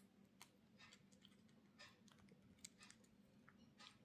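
Faint, irregular small clicks of a baby parrot's beak nibbling and chewing at something, a few clicks a second at uneven spacing.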